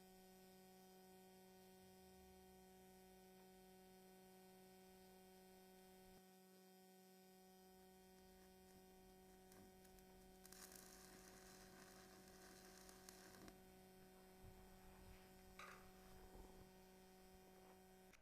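Faint steady electrical hum from the two microwave-oven transformers of a homemade welder, switched on with no load on them. The hum stops abruptly at the end.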